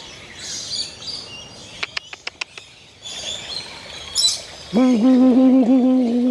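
Many birds chirping and calling, with a quick run of clicks about two seconds in. Near the end, a person's voice holds a long, wavering hum, the loudest sound.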